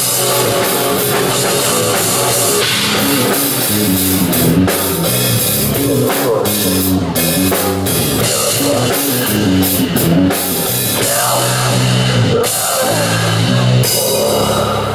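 Live rock band playing loud: drum kit with cymbals, electric guitar and a moving bass line. Near the end the drums and cymbals drop out, leaving a held low note.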